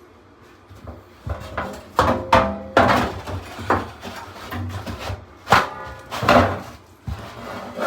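Sheet-metal parts of a furnace blower assembly knocked and clattered while being taken apart, in two bursts of handling with brief metallic ringing.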